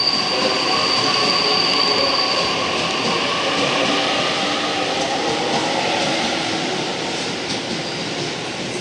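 JR East E257 series electric train passing through a station platform without stopping, its running noise continuous and loud. A high steady whine sounds over it for the first three seconds, and the noise dies down a little near the end.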